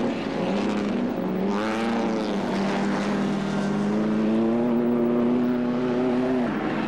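Engines of pre-war vintage racing cars running hard past the track. One note swells and falls away about two seconds in, then a steady engine note climbs slowly in pitch and drops off near the end.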